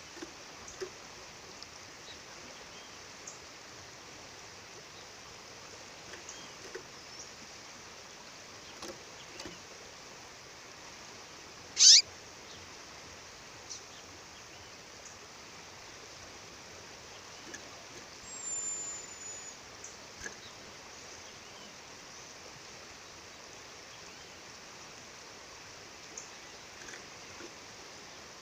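Waterfall rushing steadily, with a female bird calling over it: one loud, short, downward-sweeping call about twelve seconds in, a brief high whistle later, and scattered faint chirps.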